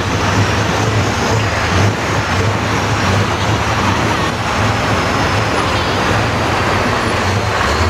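Heavy trucks' diesel engines running in a convoy: a loud, steady engine and road noise.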